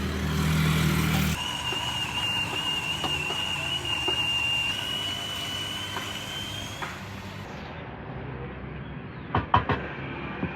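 Street traffic, with a vehicle passing close at the start. A steady high whistling tone holds for about five seconds, rising slightly just before it stops, and a few sharp knocks come near the end.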